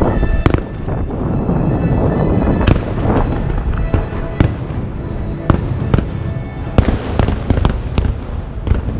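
Aerial fireworks exploding: sharp bangs over a constant low rumble, with a rapid cluster of bangs about seven seconds in as many shells burst together.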